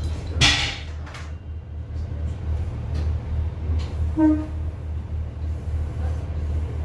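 Class 142 Pacer railbus heard from inside the saloon while running: a steady low engine and running rumble with occasional knocks and rattles. A hissy burst comes just after the start, and a short pitched squeak about four seconds in.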